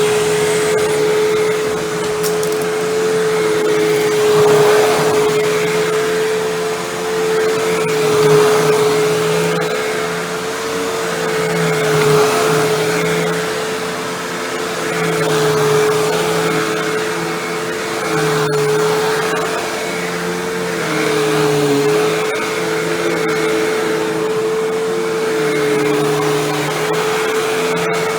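Hoover Windtunnel Bagless twin chamber upright vacuum running with its bypass motor at full speed: a steady motor whine, with the level swelling and dipping every couple of seconds.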